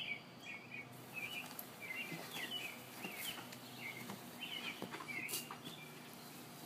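A small bird chirping over and over, short high chirps about twice a second, with a few faint clicks.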